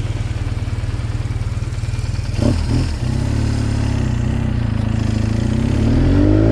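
BMW R1200GS boxer-twin engine running while riding, with a short break in the note about two and a half seconds in, then rising steadily in pitch as the bike accelerates.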